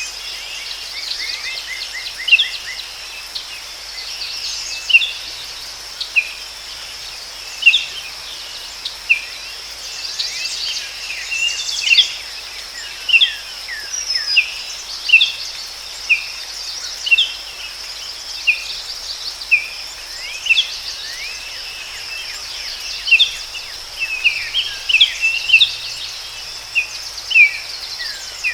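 Forest ambience: birds giving short, mostly falling chirps, scattered irregularly about once a second, over a steady high-pitched insect drone.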